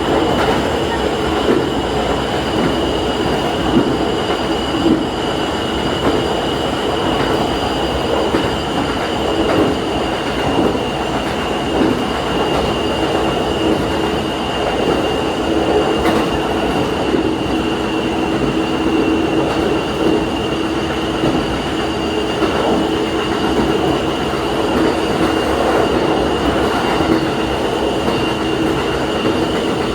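Diesel railcar running steadily along the line, heard from the front of the train: continuous wheel-and-rail noise and engine drone, with a constant low hum and a thin high whine.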